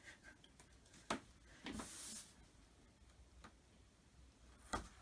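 A few faint clicks and knocks, the last one the loudest near the end, with a brief soft rustle about two seconds in: small furniture fittings and packaging being handled.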